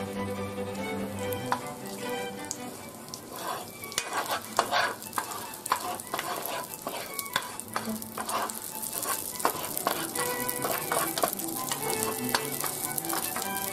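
Minced garlic frying in hot oil in a pan, sizzling with a dense crackle that grows louder and busier about three and a half seconds in, while a wooden spoon stirs it.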